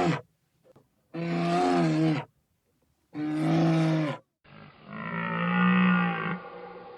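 A series of drawn-out animal calls: three calls of about a second each, then a longer, duller call after a cut near the middle.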